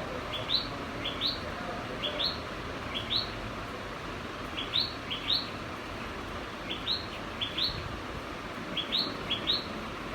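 House sparrow chirping: short upward-sliding chirps, mostly in pairs, repeated about once a second with a few short pauses, over a steady background hiss.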